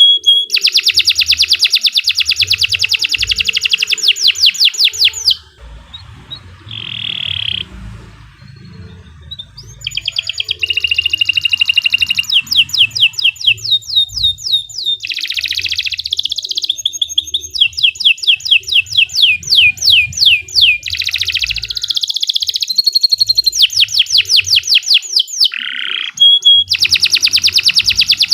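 Domestic canary singing long, rapid trills of repeated high notes. A quieter break with only a short phrase comes about six to ten seconds in, then the fast trilling resumes.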